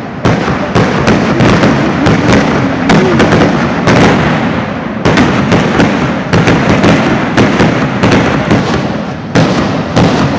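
Consumer aerial fireworks going off in a loud, continuous barrage of rapid bangs and pops.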